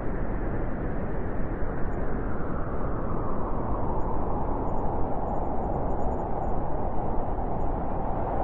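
Blizzard wind blowing steadily as a dense rushing noise, with a howling band that grows stronger toward the end.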